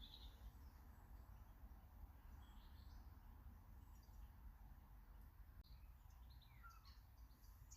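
Faint garden birds calling: a few short high chirps, then a quick run of sweeping notes near the end, over a low steady background rumble.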